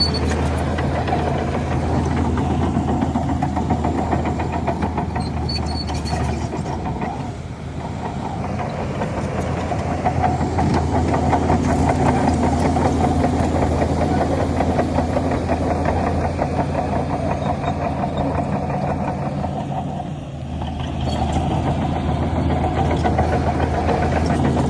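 Heavy diesel engines of earthmoving machinery (dump truck and bulldozer) running under load. The engine note drops briefly about a third of the way in and again near the end, then comes back up.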